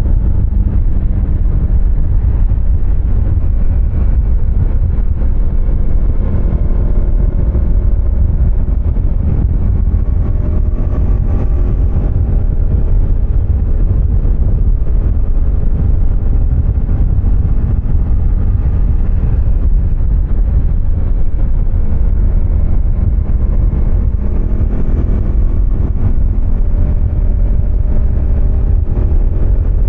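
Husqvarna Svartpilen 250's single-cylinder engine running under way, its pitch rising and falling gently with the throttle, over a heavy low rumble of wind on the microphone.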